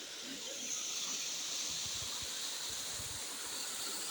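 Steady hiss of rushing water, a little louder about half a second in and then even.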